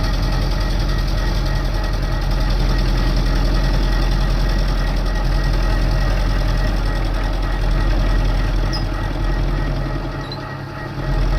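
A TOS milling machine running steadily with a low motor hum, its carbide cutter milling down a snapped exhaust stud. The sound eases off briefly near the end, then comes back.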